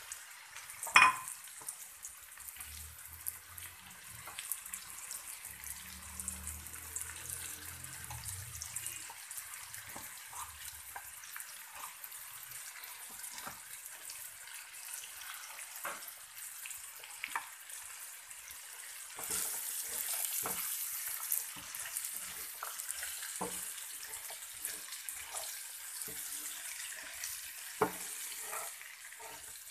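Chopped okra sizzling in a frying pan, stirred with a wooden spatula that knocks and scrapes against the pan. A sharp knock comes about a second in, and the sizzling gets louder about two-thirds of the way through.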